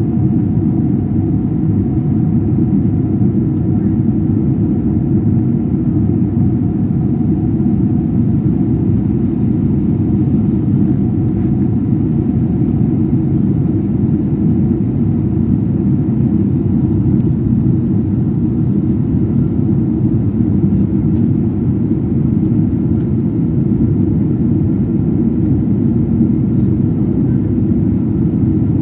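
Steady low rumble of an airliner in flight, engines and rushing air heard from inside the passenger cabin.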